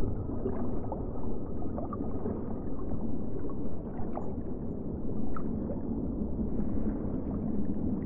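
Underwater sound: a steady rushing, gurgling water noise, with faint short clicks scattered through it.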